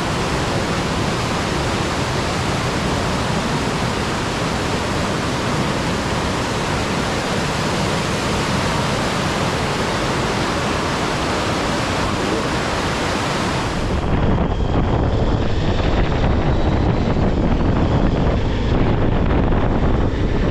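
Waterfall rushing steadily. About 14 s in the sound changes suddenly to a deeper, duller rush with more low rumble and little treble.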